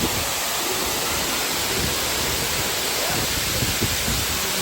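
Waterfall in full flow: a steady, loud rush of falling water, with low irregular buffeting on the microphone.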